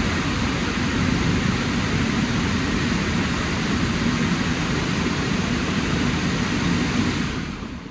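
Dryer blowers of a WashTec SoftCare Pro rollover car wash running with a steady rush of air, then shutting off and winding down near the end.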